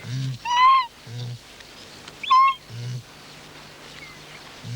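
Ground hornbills giving their deep, short booming calls, repeated about every one to two seconds. A higher-pitched, arching bird call is heard in between them three times.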